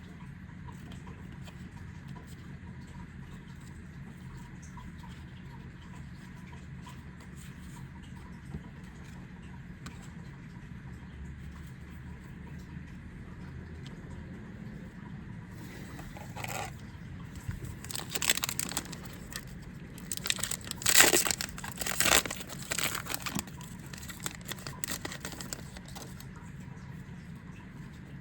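Foil trading-card booster pack being torn open and crinkled by hand: a run of crackling tears and rustles in the second half, the loudest a little past the middle, over a steady low hum.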